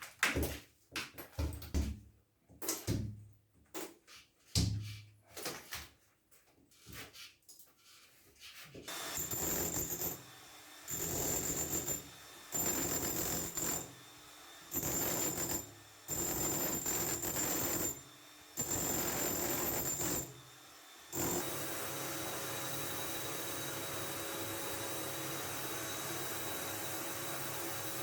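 Knocks and clatter of tools being handled, then a handheld power tool with a high motor whine run in about five short bursts, then a steady hiss.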